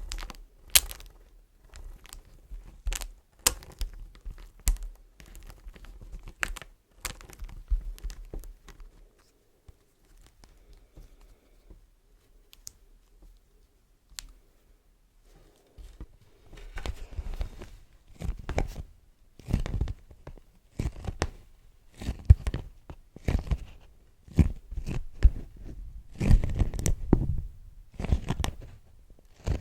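Beeswax wraps crinkling and crackling as they are handled. Sharp separate crackles come first, then a quiet spell of several seconds, then dense, louder runs of crinkling through the second half.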